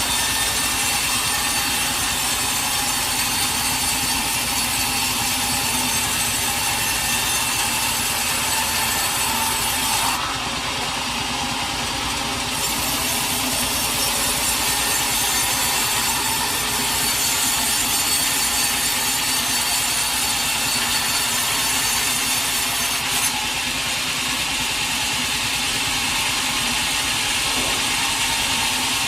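Sawmill saw cutting through a teak log, a continuous sawing noise. It eases briefly about ten seconds in for a couple of seconds, then carries on.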